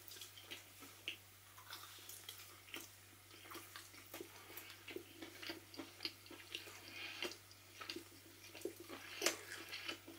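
A person chewing a bite of tender pork rib, with faint irregular clicks and smacks of the mouth.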